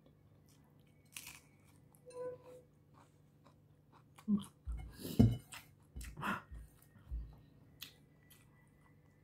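Close-up chewing of a crisp raw green vegetable, with scattered crunches and crackles. In the middle come a cluster of louder crunches and a few dull thumps, the loudest about five seconds in.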